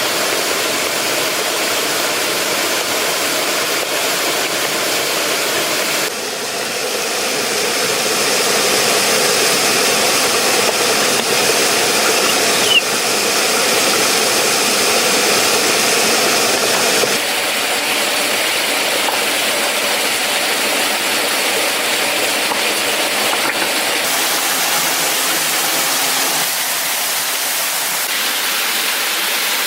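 Steady rushing of falling water, a continuous even noise that changes character abruptly about six seconds in and again about seventeen seconds in.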